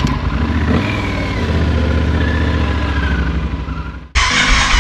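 Motorcycle engine running steadily with a low rumble. About four seconds in it cuts off abruptly, replaced by a louder burst of rushing noise.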